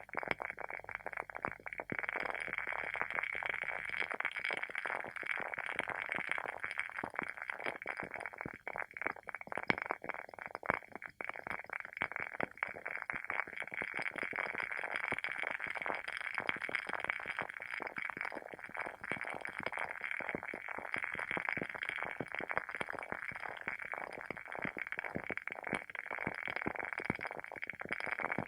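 WoodWick candle's wooden wick burning with a steady, dense crackle of tiny pops, like a small bonfire. A faint low hum underneath stops about four seconds in.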